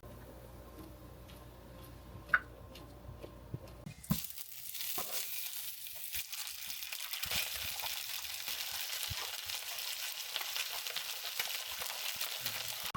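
Food sizzling and crackling in a hot frying pan, starting abruptly about four seconds in after a quiet stretch with a low hum.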